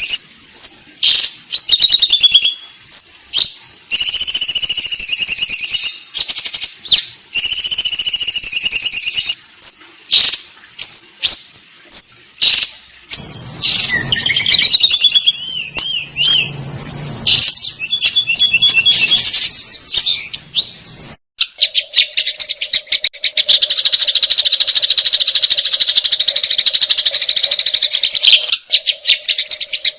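Sparrows chirping loudly in a fast, excited series of repeated chirps, typical of sparrows squabbling. About two-thirds of the way through the sound changes abruptly to a dense, very rapid buzzing trill over a steady low hum.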